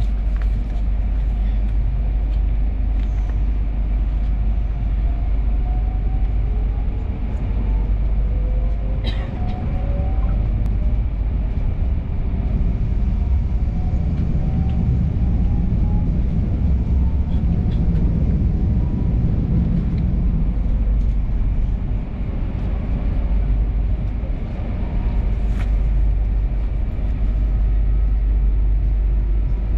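Electric regional train running, heard from inside the carriage: a steady low rumble of wheels on rails, with whining tones rising in pitch in the first half as the train picks up speed. A couple of sharp clicks cut through the rumble.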